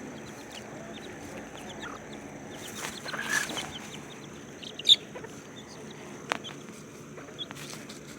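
Chickens clucking softly, with scattered short high peeps. A sharp click comes about five seconds in and another a second or so later.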